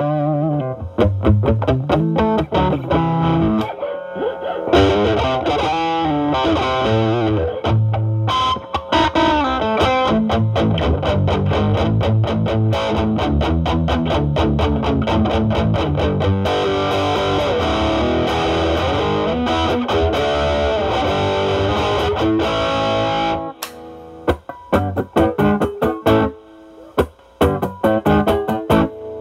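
Electric guitar, a Stratocaster played through a Ceriatone Centura (Klon Centaur clone) overdrive at low gain into a Marshall Valvestate amp's drive channel, in a cleaned-up, lightly overdriven tone. Continuous chords and lines ring on until about 23 seconds in, then give way to short picked notes and stabs with gaps between them.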